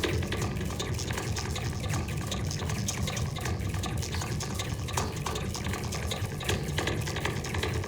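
Goa trance electronic music, here a dense, hissing texture of fast fine clicks at a steady level.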